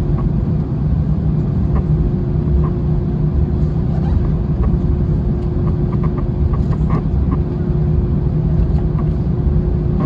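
Airbus A321 passenger-cabin noise with the engines running: a steady low rumble and a constant hum, with faint clicks and rattles from the cabin.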